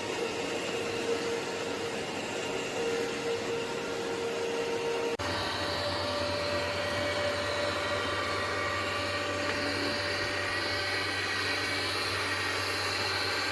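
ECOVACS DEEBOT T80 Omni running with a steady motor and fan whir and a held tone. About five seconds in, the sound switches abruptly to another steady whir with a deeper hum under it.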